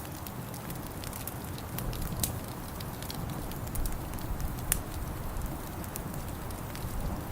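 Wood fire crackling in a fireplace: sharp, irregular pops and snaps, one louder pop a little past the middle, over a steady low rumble.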